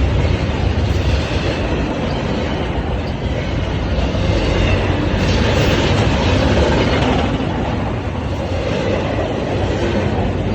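Union Pacific intermodal freight train rolling past, a loud, steady rumble of wheels on the rails.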